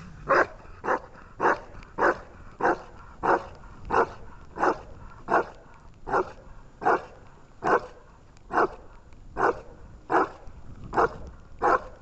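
A dog barking over and over in a steady rhythm, about one and a half barks a second, each bark short and loud.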